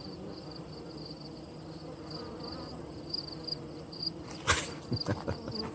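Honeybees buzzing at a hive entrance, with a cricket chirping in short, high pulses two or three times a second. A sharp knock comes about four and a half seconds in, followed by a few lighter clicks.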